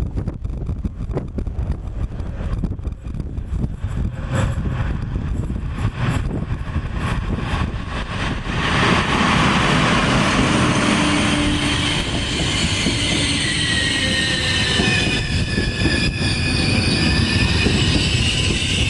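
An Intercity train hauled by an E444 electric locomotive rolling into a station: the wheels click over the rail joints, then about nine seconds in the noise swells and a high wavering squeal from the wheels and brakes sets in as the train slows.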